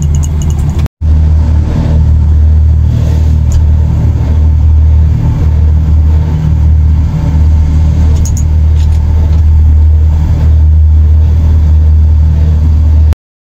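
Steady low drone of the Sky Capsule rail car running along its elevated track, heard from inside the capsule, broken by a short dropout about a second in.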